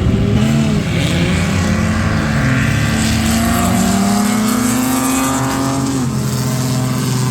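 Race car engine, a Holden Commodore, running hard under load. The pitch dips and recovers under a second in, then climbs steadily for about five seconds as it pulls through a gear, and drops sharply with a gear change about six seconds in.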